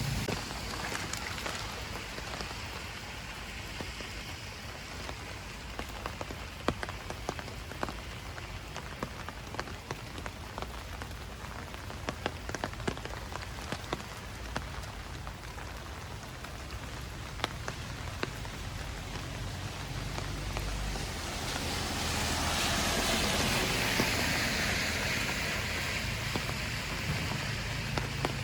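Raindrops and water drips pattering on leaves and the ground: a steady hiss with many sharp individual drops. The hiss swells louder for several seconds past the two-thirds mark, then eases near the end.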